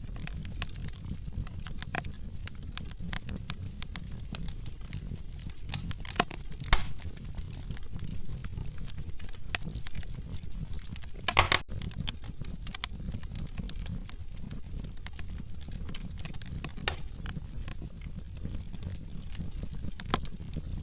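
Wood logs burning in a fireplace, crackling steadily over a low rumble of flame, with scattered sharp pops; the loudest pop comes about a third of the way in, and a quick cluster of pops just past halfway.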